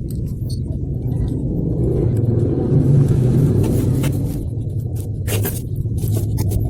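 Small homemade four-stroke engine built from a refrigerator compressor, running with a steady rumble that swells a couple of seconds in and eases off again.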